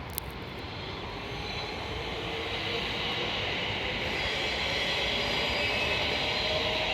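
A train approaching the station, its rumble and hiss growing steadily louder, with a faint held whine.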